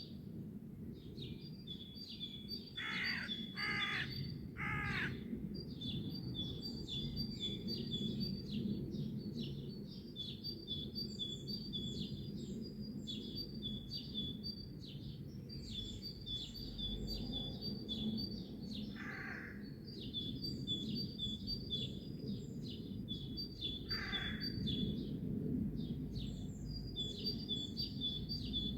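Birdsong: small birds chirping rapidly and continuously at a high pitch, with a larger bird giving harsh calls, three in quick succession a few seconds in and single calls later, over a low steady background rumble.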